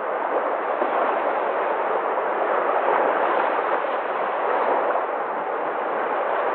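Sea waves breaking and washing in a steady, continuous rush of surf.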